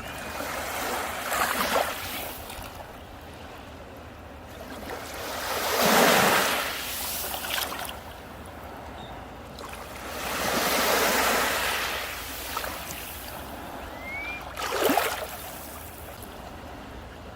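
Sea waves breaking on a beach: four surges of rushing surf, one every four to five seconds, each swelling and then fading into a steady wash, the second the loudest.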